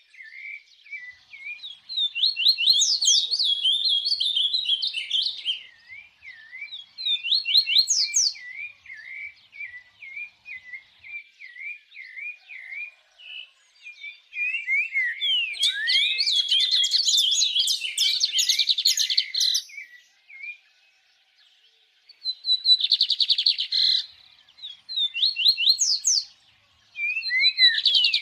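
Songbird singing in rapid runs of high chirps and quick slurred notes, in bursts with a short pause about three-quarters of the way through.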